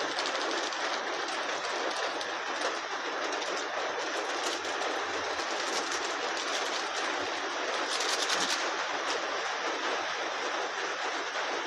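Heavy rain falling: a steady, even hiss, with a few faint clicks over it.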